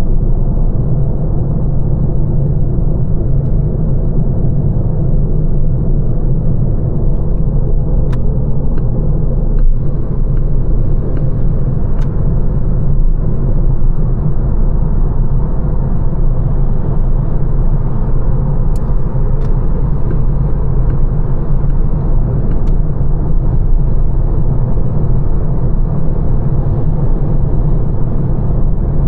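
Lancia Ypsilon hatchback driving along, heard from inside the cabin: a steady low road and tyre rumble, with a few faint ticks now and then.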